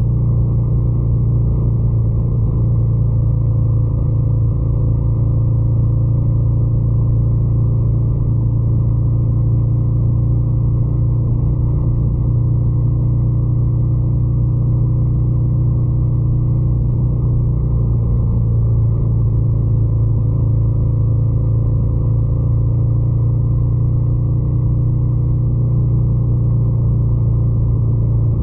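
Ducati Scrambler 800's air-cooled L-twin engine running at a steady, unchanging pace, a low even engine note with no revving.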